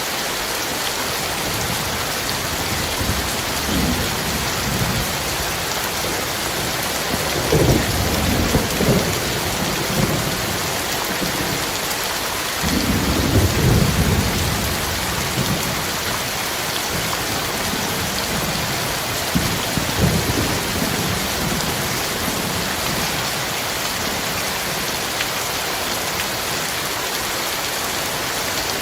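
Heavy rain pouring steadily, with thunder rumbling low several times over it; the biggest rolls come about a quarter and about halfway through.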